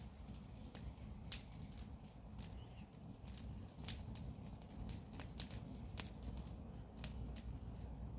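Garden-waste fire crackling: irregular sharp pops and snaps, the loudest a little over a second in and near four seconds, over a low steady rumble of the burning.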